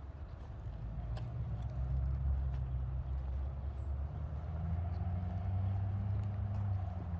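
A motor vehicle's engine running, a low hum that grows louder after the first second and rises slightly in pitch about halfway through.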